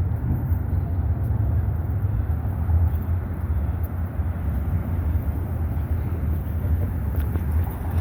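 Steady rumble of busy city road traffic, cars passing continuously with no single vehicle standing out.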